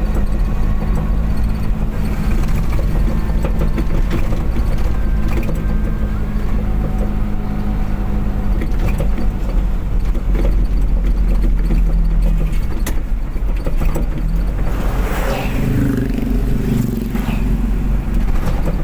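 A road vehicle driving at speed, its engine running steadily under a constant road rumble. Near the end the sound turns rougher and more varied.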